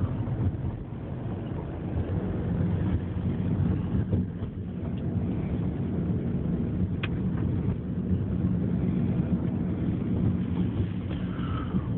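Car engine and road noise heard from inside the cabin while driving, a steady low hum, with one brief click about seven seconds in.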